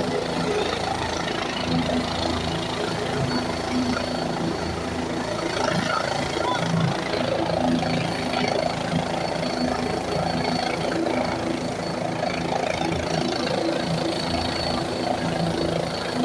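Helicopter engine and rotor running steadily, a constant low hum with noise over it and no clear rise or fall.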